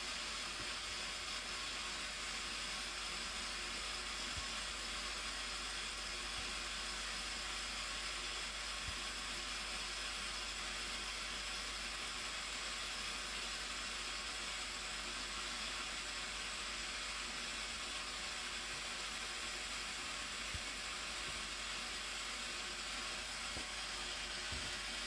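Steady, unbroken rush of falling water from the Blue Nile Falls, an even hiss with no let-up.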